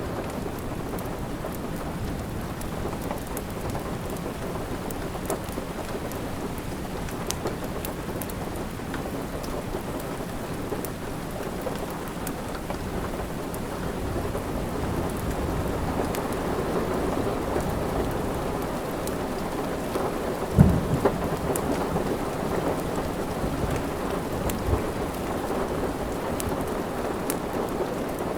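Steady rain with a crackling fire: a constant rushing hiss under scattered sharp crackles, and one low thud about two-thirds of the way through.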